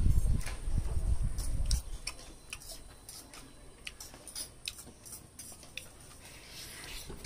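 Close-miked eating sounds: chewing smoked pork ribs, with scattered sharp mouth clicks and smacks. A low rumble fades out about two seconds in.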